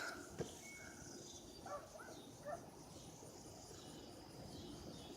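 Faint outdoor ambience: a steady high chirring of insects, with a few short bird calls about two seconds in and a single light click near the start.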